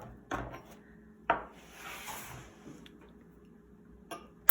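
A few light knocks and taps on a wooden cutting board, the sharpest about a second in, with a short soft rubbing sound in between, as a slit banana is handled and its skin peeled back.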